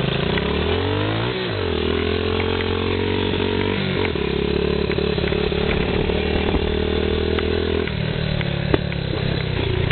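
Small Yamaha TT-R dirt bike's four-stroke single revving up under acceleration and shifting, then holding steady revs, stepping again about four seconds in and easing back to lower revs near the end.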